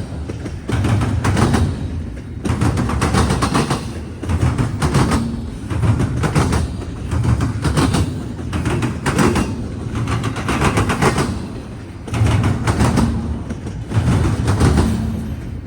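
Wheels of a CSX freight train pounding over a railroad crossing diamond: clusters of rapid, heavy metallic bangs about every second and a half as each set of wheels hits the gaps in the crossing rails, with the rumble of the rolling cars between.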